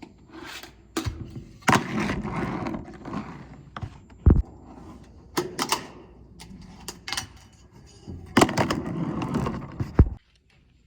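Fingerboard on LEEFAI trucks and wheels rolling across a surface, with sharp clacks as the board pops and lands. There is a longer roll about two seconds in and another near the end, which stops abruptly.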